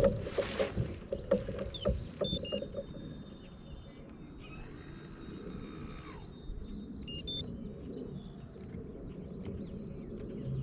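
Knocks and clunks on a kayak as the angler moves and handles gear, a quick run of them in the first couple of seconds. Then quieter water and open-air noise with a few short high chirps.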